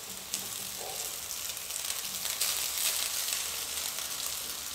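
Onions and tempering frying in oil in a steel kadai, with cooked vermicelli just added on top: a steady, soft sizzling hiss.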